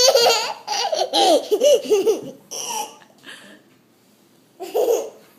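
Toddler laughing in a run of short bursts for about two seconds, then one more short laugh near the end.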